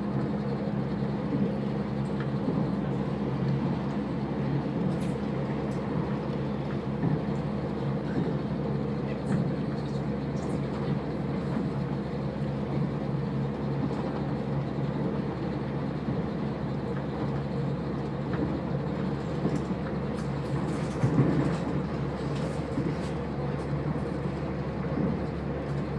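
Diesel passenger train running at speed, heard from inside the carriage: a steady engine drone with a low hum, over the rush of the wheels on the rails. There are a few faint clicks and a brief louder knock near the end.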